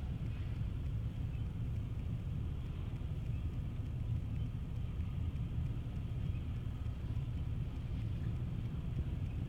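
Long freight train rolling slowly past: a steady low rumble of the cars going by.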